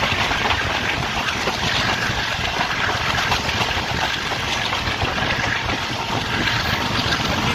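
Tez Gam Express passenger train running along the track, a steady, even noise.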